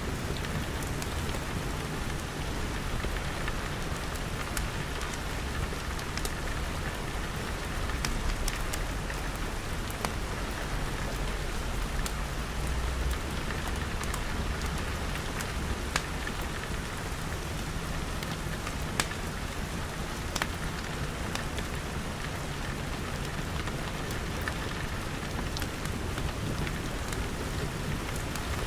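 Steady rain pattering on glass, with scattered sharp crackles from a wood fire and a low rumble underneath.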